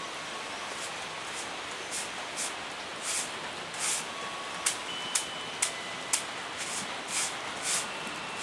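Heavy rain falling steadily, with louder drops splashing close by about every half second and a few sharp ticks near the middle.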